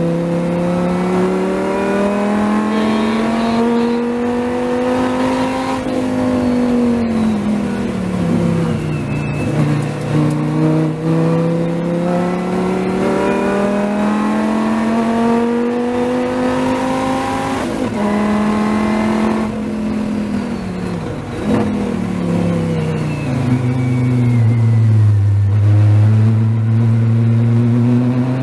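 Dodge Viper race car's V10 engine heard from inside the cockpit at racing speed. The engine note climbs as the car pulls down the straights and falls several times as the driver brakes and downshifts for corners.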